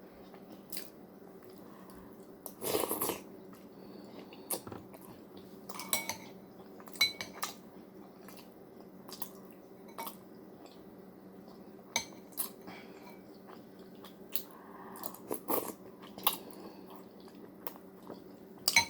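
Spoon clinking against a soup bowl, with chewing between spoonfuls: scattered sharp clicks and short knocks over a low steady hum.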